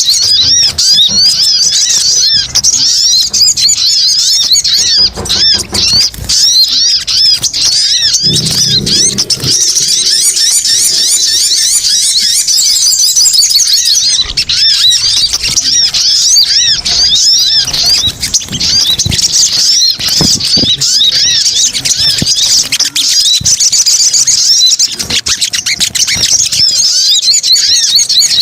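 A dense, loud chorus of sogon (sogok ontong) sunbirds chattering: rapid, overlapping high chirps running without a break, the agitated calling used as a lure to draw other sogon in.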